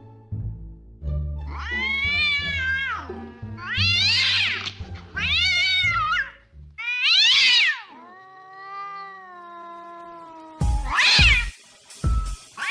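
A cat meowing loudly: four long yowls that rise and fall in pitch, then a lower, quieter drawn-out meow, over background music with low steady notes. Near the end it cuts to a sharp higher call and a few thumps.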